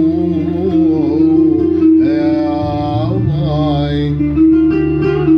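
Arabic folk song: a singer draws out a wavering, ornamented vocal line over a steady instrumental accompaniment with a sustained bass.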